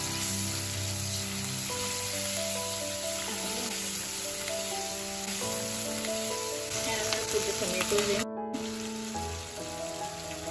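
Ginger garlic paste sizzling as it fries in hot ghee in a stone pot. It is stirred with a silicone spatula, with a few louder scrapes and knocks in the middle.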